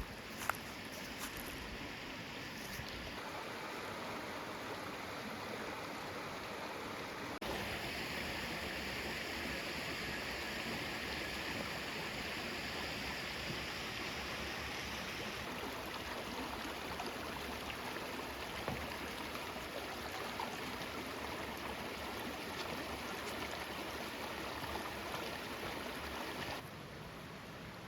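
Woodland creek running over rocks: a steady rush of water that grows louder and brighter about seven seconds in and drops back shortly before the end.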